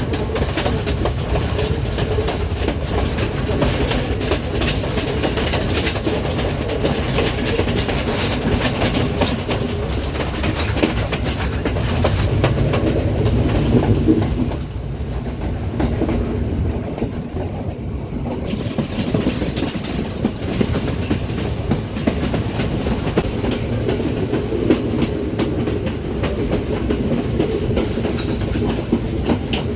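Passenger train running, its wheels clattering over the rail joints above a steady rumble. The higher part of the noise drops away for a few seconds midway, then returns.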